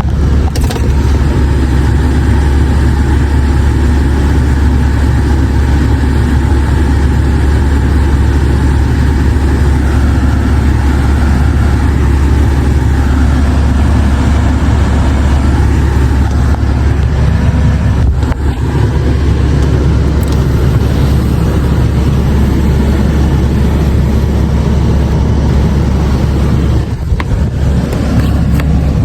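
Maserati Levante SUV being driven: a steady, loud engine and road rumble.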